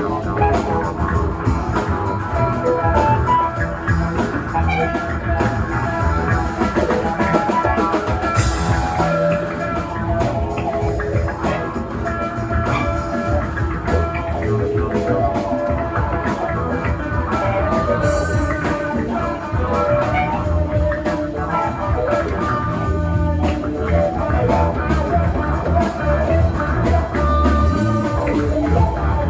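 A rock band playing live: drum kit, guitar and bass in a continuous instrumental passage.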